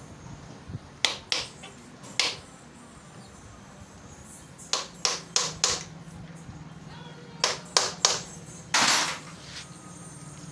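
Small metal parts and hand tools clicking and clinking during motorcycle engine work: about a dozen short, sharp clicks in small groups, then a longer half-second clatter near the end.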